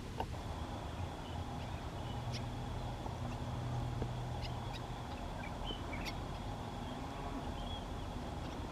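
Outdoor ambience: a steady high thin hum under a low rumble, with a few brief, faint bird chirps scattered through it.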